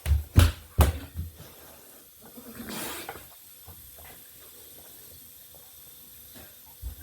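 A person breathing hard and hissing air through the mouth against the burn of extremely hot jerky, with a few dull thumps in the first second and one longer breathy exhale about three seconds in.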